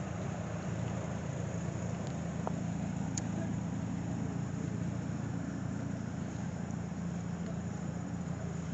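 An engine running steadily nearby, a low even hum with no change in speed.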